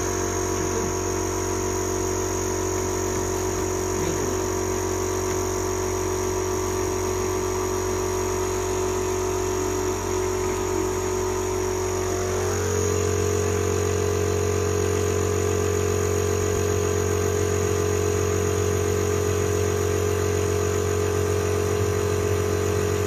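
Electric pump of a radiator-flushing machine running steadily with a low hum and a high whine; its tone shifts once, about twelve seconds in, and then holds steady.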